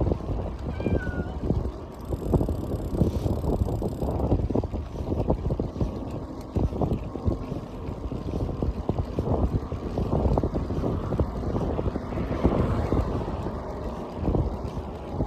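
Wind buffeting the microphone during a ride on a bike, a rough, gusty rumble mixed with road and vehicle noise.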